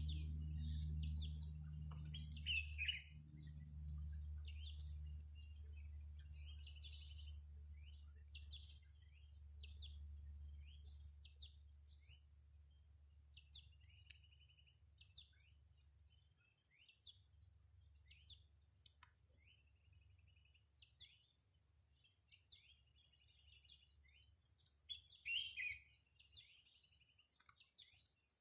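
Songbirds chirping and calling: many short, high chirps and brief trills, some overlapping, with a low hum underneath that fades away over the first half.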